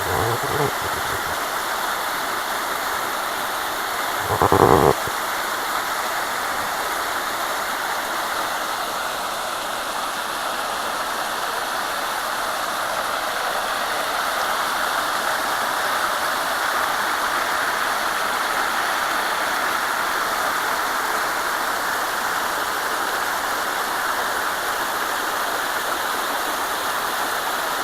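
Waterfall: water falling and rushing with a steady, even roar. A short, louder burst of about half a second comes around four and a half seconds in.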